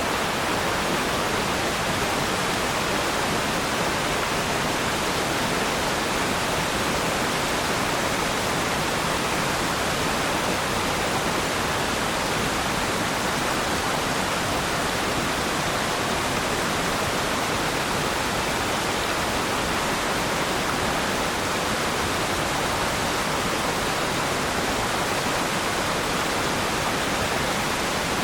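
Waterfall: water falling and splashing, a steady even rush with no change.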